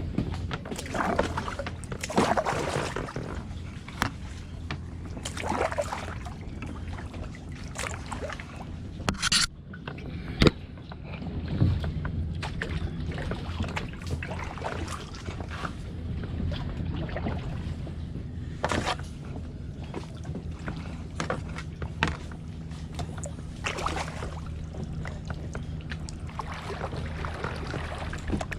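Kayak paddle strokes dipping and splashing in the water, a stroke every second or two, with one sharp knock about ten seconds in.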